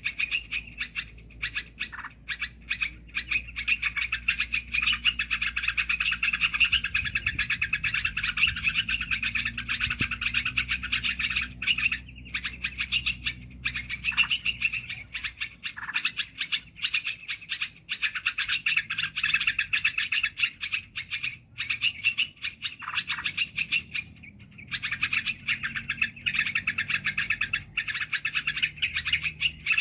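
Bird-luring call (suara pikat) used to attract bulbuls: a dense, rapid chattering of small-bird calls, broken by short pauses about 12, 17 and 24 seconds in, over a thin steady high whine.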